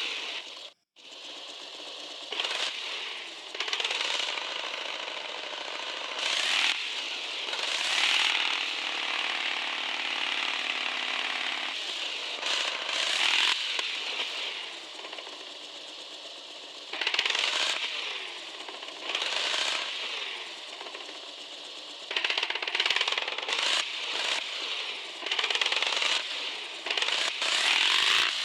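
Small RC 4x4 crawler's electric motor and drivetrain gears whirring and rattling, revving up and easing off in repeated surges every second or two as the truck works through slippery mud. The sound drops out briefly about a second in.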